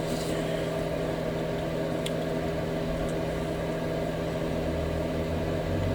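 Steady low electrical or mechanical hum at an even level, with two faint small clicks about two and three seconds in.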